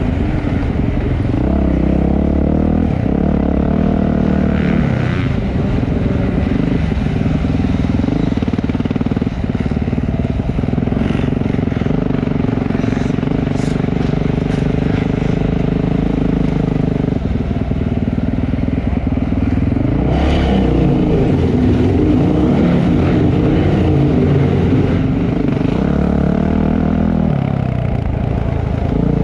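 Motocross dirt bike engine running hard, its pitch rising and falling as the rider revs and shifts, with a few sharp clatters.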